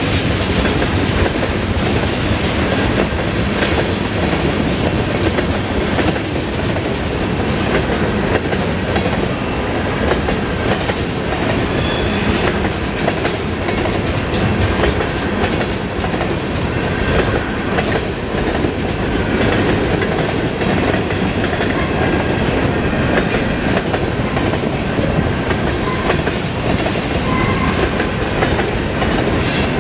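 Freight train of centerbeam flatcars loaded with wrapped lumber rolling steadily past at close range: a continuous rumble of steel wheels with a clickety-clack over the rail joints.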